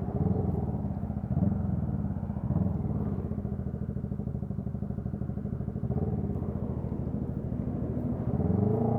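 Motorcycle engine running under way, its pulsing note rising and falling a few times as the revs change.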